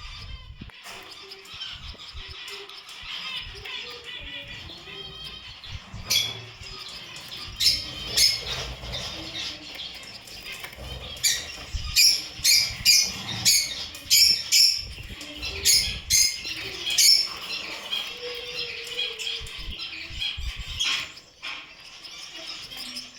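Caged Gouldian finches chirping and chattering in high-pitched calls, with a busy stretch in the middle of loud, sharp, short sounds, about two a second, among the flutters of the birds.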